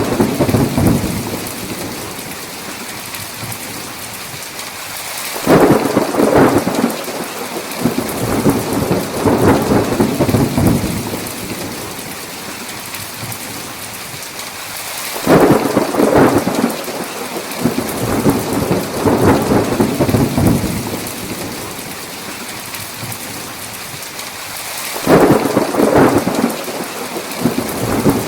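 Steady heavy rain with thunder. Three claps break suddenly about ten seconds apart, and each rumbles on for several seconds.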